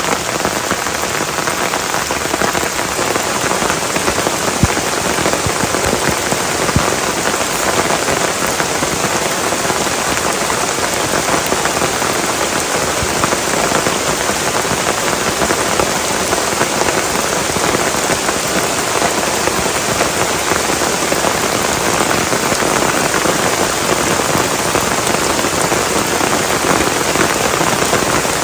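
Heavy rain pouring steadily, a dense even patter of drops on a surface. A couple of sharper, louder drop hits stand out within the first seven seconds or so.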